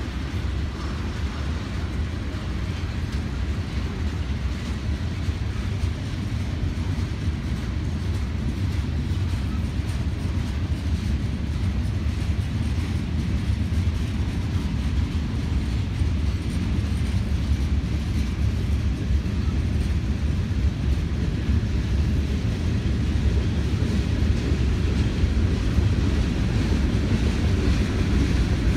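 Norfolk Southern manifest freight train's cars rolling past: a steady low rumble of steel wheels on rail that slowly grows louder.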